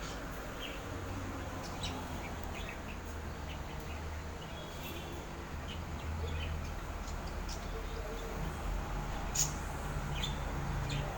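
Small songbirds chirping, with short scattered chirps and calls over a steady low hum. It is a birdsong track meant to stimulate pet birds to be active.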